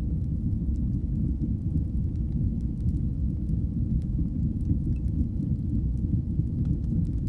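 Fire burning in a fireplace: a steady low roar with faint, scattered crackles.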